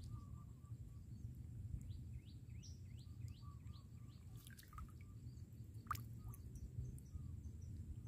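Faint outdoor birdsong: a quick run of repeated short chirps a couple of seconds in, with other small birds calling now and then, over low steady background noise.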